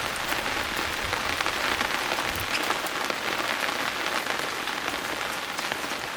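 Steady rain falling on a hard surface, an even hiss with many small drop ticks throughout.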